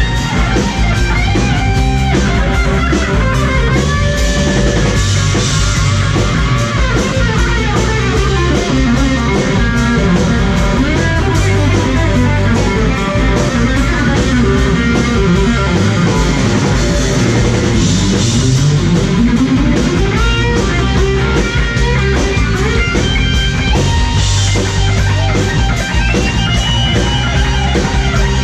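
Rock music: an electric guitar lead with bending and sliding notes played over a drum kit.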